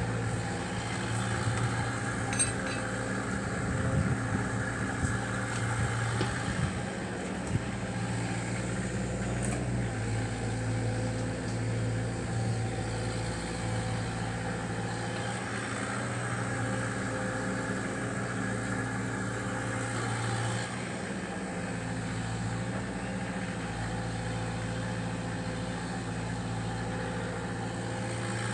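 Cat 305D mini excavator's diesel engine running steadily, with scattered clanks and knocks in the first several seconds.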